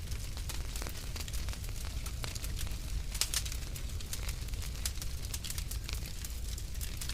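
Wood fire burning in a fireplace: frequent sharp crackles and pops over a steady low rumble, with one louder pop about three seconds in.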